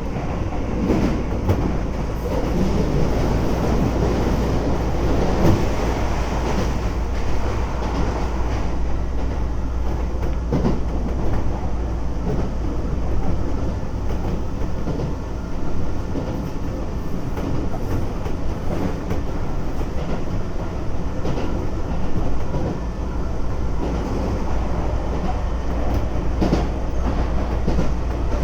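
Keisei 3400 series electric train running: a steady rumble of wheels and running gear, with irregular clacks as the wheels pass over rail joints.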